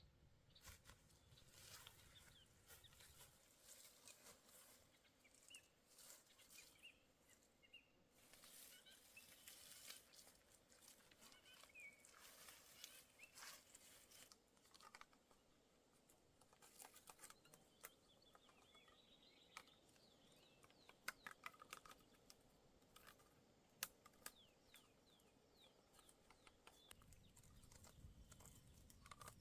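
Very quiet forest ambience: faint scattered clicks and rustling, with a few faint bird chirps now and then.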